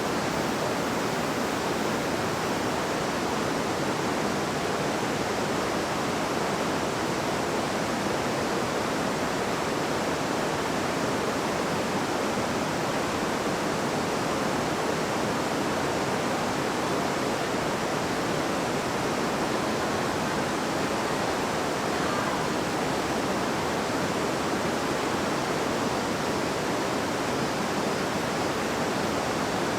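A river babbling steadily: an even, unbroken rush of flowing water with no single splash standing out.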